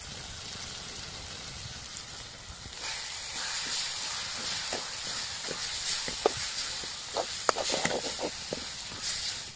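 Thick conch meat masala sizzling in a metal pot while a metal ladle stirs it, with scattered scrapes and knocks of the ladle against the pot. The sizzle gets louder about three seconds in.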